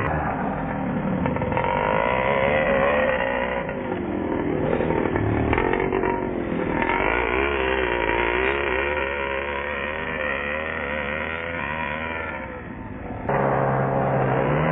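Small nitro engine of an ARX 540 RC motorcycle running, its pitch rising and falling repeatedly as the throttle is worked. About 13 seconds in, the sound suddenly gets louder and steadier.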